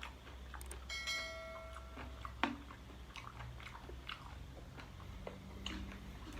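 Close-up chewing and biting while eating spicy chicken feet, with small wet clicks and crunches of the skin and cartilage. A short ringing clink comes about a second in, and a sharper click a little later.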